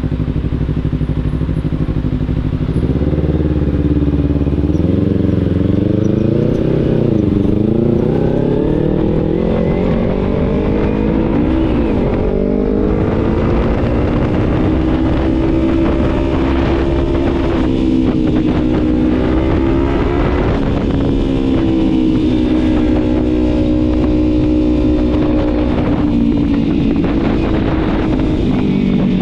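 Kawasaki Z300 parallel-twin engine running under way, its pitch rising and falling as the bike accelerates and shifts: it climbs over the first several seconds, drops briefly about twelve seconds in, climbs again, then holds fairly steady, with a small dip near the end.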